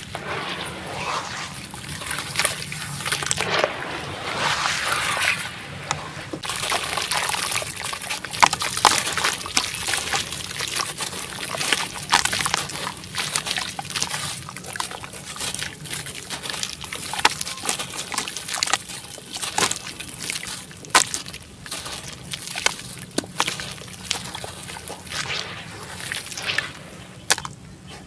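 Water sloshing around a dry sand-cement crumble dipped in it, with a busy fizz of small crackles as the cement soaks, releases bubbles and breaks apart. It fades near the end.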